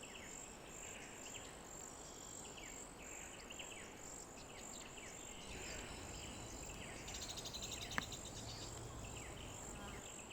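Faint outdoor ambience: steady, rapidly repeating high insect chirping with scattered short, high bird chirps. A fast buzzing trill comes about seven seconds in, and a single sharp click about a second later.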